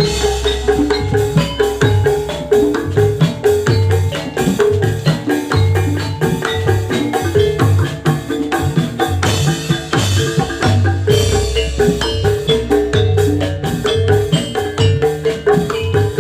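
Instrumental Javanese gamelan music for jathilan, with no singing: metallophones play a fast repeating melody over steady drum beats, with a deep gong-like stroke at the start and again about eleven and a half seconds in.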